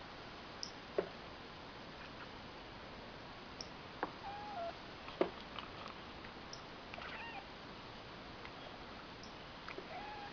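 Domestic cat chirping at a bird: a handful of short, sharp chirps and brief meows that bend up and down in pitch, spaced out by pauses of a second or more.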